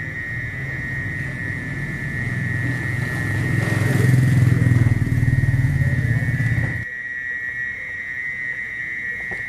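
Mole cricket (orong-orong) calling with a steady, unbroken shrill trill. A motor vehicle's engine rumble builds over it from a couple of seconds in, is loudest in the middle, and stops abruptly about seven seconds in.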